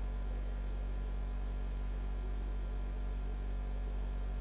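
Steady electrical mains hum with faint hiss on the recording, unchanging throughout.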